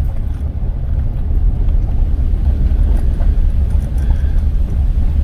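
Car driving along a road: a steady, loud low rumble of engine and tyres.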